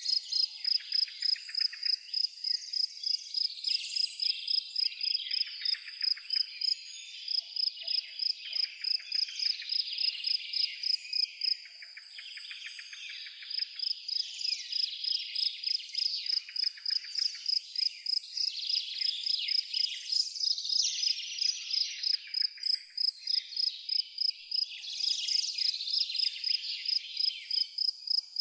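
High-pitched insect chirping, a steady pulse of about three to four chirps a second that stops for a couple of seconds about twelve seconds in, over a continuous chorus of other chirping and trilling calls.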